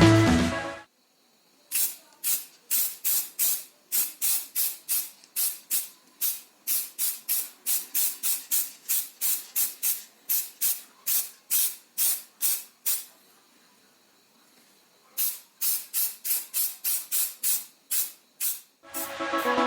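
Rhythmic hand-abrasion strokes on a rusty metal tool part, about three short rasping strokes a second. The strokes stop for about two seconds and then start again.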